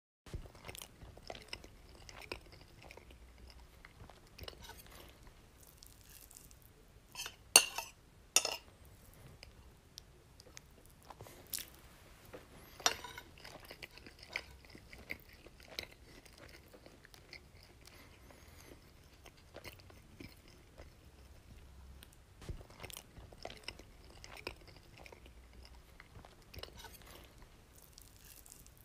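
A person chewing and biting crunchy food, with irregular crisp crunches; the two loudest come about seven and a half and eight seconds in.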